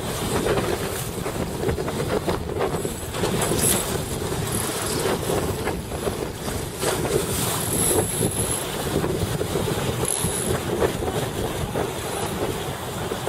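Strong wind buffeting the microphone over water rushing and splashing against a boat's hull, loud and uneven throughout.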